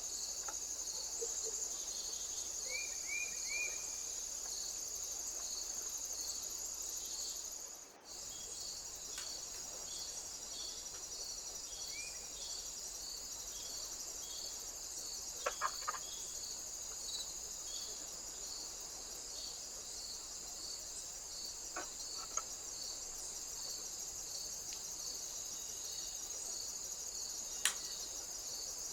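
Insects chirring: a steady high trill with a slower regular pulse beneath it, cut off briefly about eight seconds in, with a few faint clicks.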